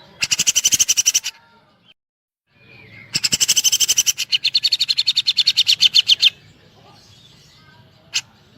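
Grey-cheeked bulbul (cucak jenggot) singing rapid rattling bursts of fast-repeated notes, woodpecker-mimic 'shots'. There is a short burst of about a second, then a longer one of about three seconds, with faint bird calls behind and a single sharp click near the end.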